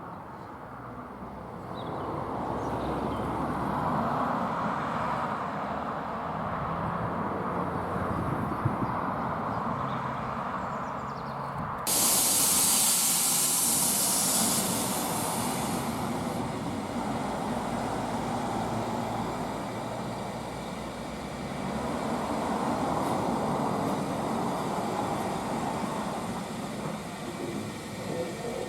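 Narrow-gauge steam train working, with a steady rumble that swells and fades. About twelve seconds in, a loud hiss of escaping steam starts abruptly and lasts about four seconds.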